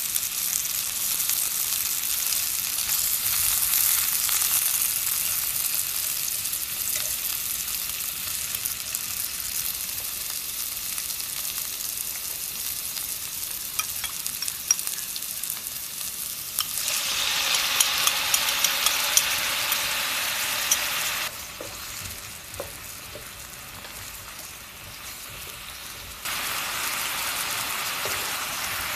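Potatoes and pork belly sizzling in a hot frying pan, with a few sharp utensil clicks. About sixteen seconds in the sizzle suddenly grows louder and crackly as sauce hits the pan. It drops abruptly a few seconds later, then comes back near the end.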